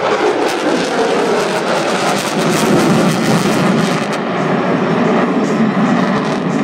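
F-22 Raptor's twin jet engines, loud jet noise of the fighter in flight; the hissing upper part eases after about four seconds, leaving a lower rumble.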